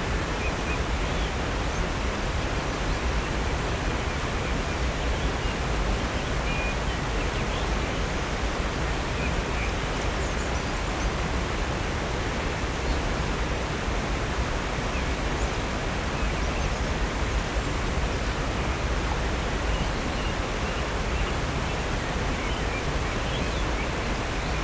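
Steady rush of water from a waterfall and creek, with a few faint, scattered bird chirps.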